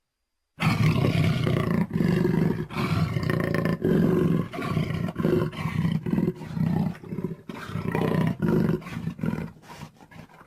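Sound-effect roaring of a saber-toothed cat (Smilodon): after a brief silence, a long, harsh run of roars and growls that breaks into shorter, choppier roars in the second half.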